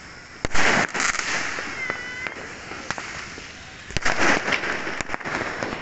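Fireworks going off: sharp bangs about half a second in and again about four seconds in, each followed by a burst of crackling, with a whistle near two seconds and scattered pops between.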